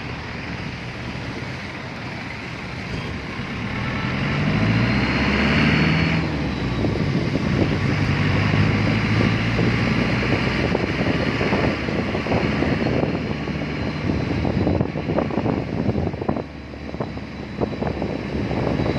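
Road traffic with a vehicle engine whose hum rises about four seconds in and holds, under wind buffeting the microphone with frequent crackles.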